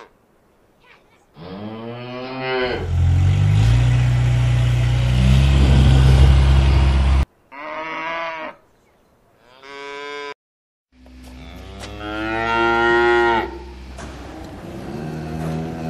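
Cattle mooing: a series of calls, with short moos between a long, deep moo in the middle and another long moo that rises and then settles lower near the end.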